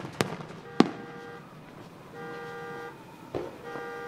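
Firework shells bursting with three sharp bangs, the loudest about a second in. Over them a car horn honks again and again in an even on-off rhythm, about one blast every second and a half.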